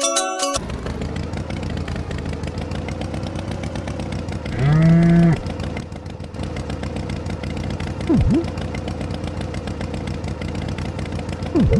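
Farm tractor engine running steadily. About five seconds in, a cow gives one loud moo. Two quick swooping glides, falling then rising in pitch, come near 8 seconds and again at the end.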